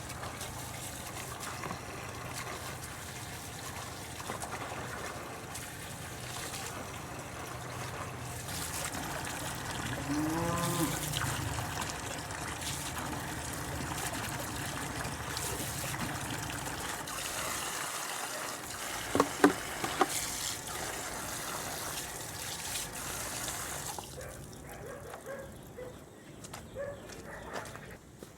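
Outdoor ambience with a steady rushing, water-like noise. About ten seconds in there is a single low animal call that rises and then falls, and a few sharp, loud short sounds come at about nineteen seconds. The rushing stops near the end, leaving faint small calls.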